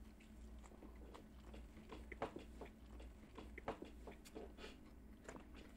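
Faint biting and chewing of a soft white-bun slider burger: small irregular wet clicks and smacks of the mouth.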